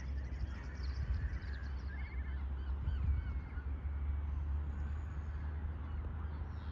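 Distant waterbird and gull calls, one a short rapid rattling call about two seconds in, over a steady low rumble of road traffic.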